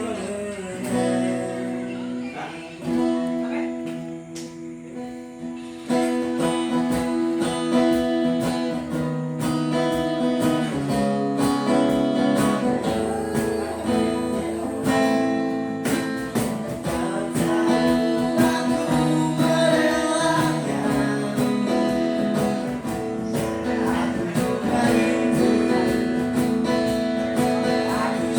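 Music: a strummed acoustic guitar, the accompaniment growing fuller and louder about six seconds in.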